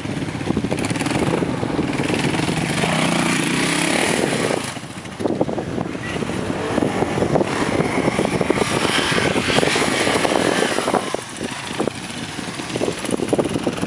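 Dual sport motorcycle engine revving hard as the bike climbs a sand hill. The sound dips briefly about five seconds in and again around eleven seconds.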